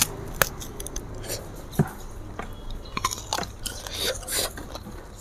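A crunchy bite into a slice of raw green mango, then close-up chewing with scattered sharp crunches, a cluster of them about three seconds in.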